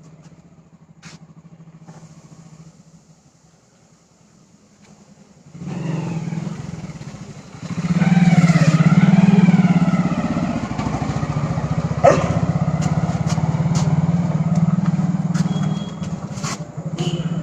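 A motor vehicle engine running close by. It starts about six seconds in, gets louder near eight seconds and then stays steady, with a few sharp clicks later on.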